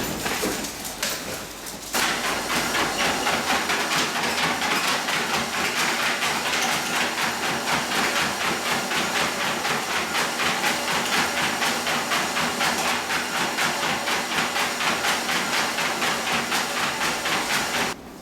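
A German Shepherd running on a treadmill: an even, rhythmic patter of paws on the moving belt over the machine's steady hiss. It starts suddenly about two seconds in and stops just before the end.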